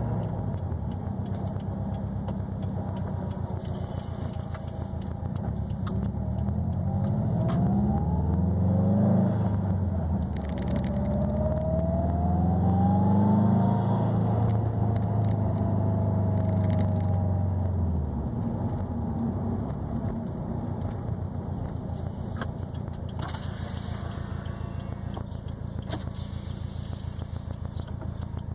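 2020 Subaru WRX STI's turbocharged flat-four engine running through an ETS quiet catback exhaust with a resonated mid pipe while driving. The revs climb twice, with a drop between, as it pulls through a gear change. A faint whine rises with the revs. About eighteen seconds in it eases off to a lower, quieter cruise.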